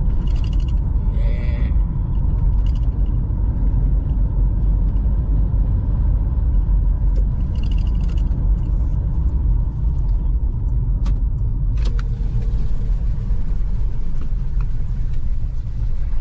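Strong wind buffeting the microphone: a loud, steady low rumble throughout.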